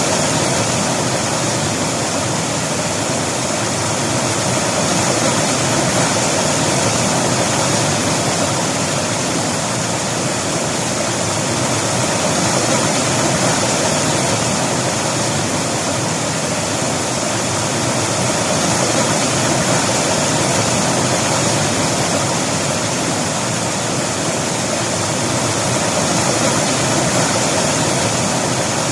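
River water rushing, a steady, even hiss with only slight swells in loudness.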